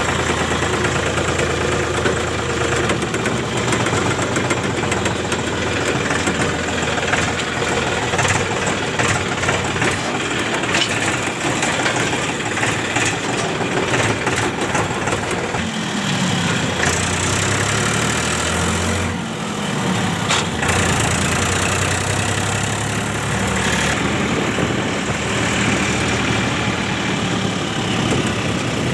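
Powertrac Euro 50 tractor's diesel engine running steadily together with the constant noise of rice mill machinery. About halfway through, the engine's pitch drops and then climbs back up.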